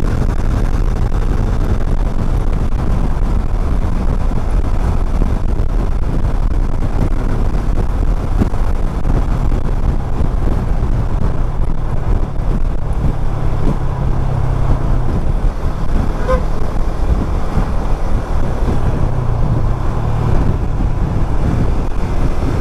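Motorcycle engine running under load at road speed, its note swelling and easing during an attempt to overtake a fast minibus, with heavy wind and road rumble on the rider-worn microphone.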